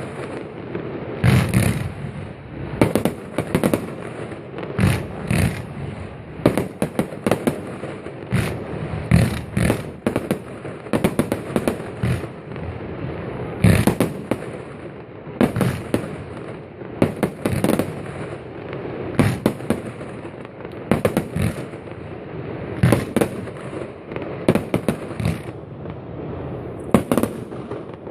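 Aerial fireworks display: a long run of sharp bangs from bursting shells, roughly one every second or so, some coming in quick clusters.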